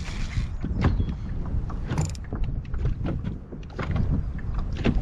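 Wind rumbling on the microphone aboard a small polyethylene boat, with irregular knocks and taps.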